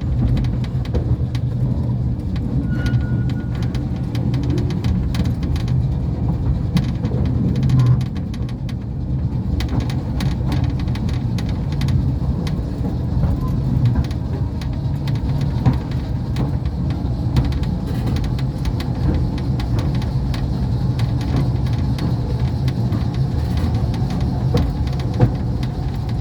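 Battery-electric Mail Rail passenger train running through its narrow underground tunnel: a steady low rumble and hum, with a constant patter of wheel and rail clicks and rattles.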